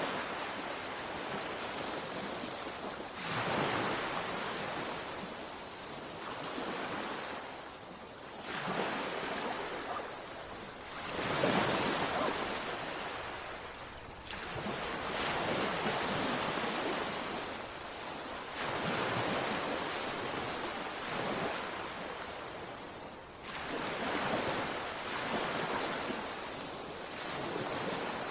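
Sea waves breaking and washing on a shore, swelling and easing every few seconds in a steady surge.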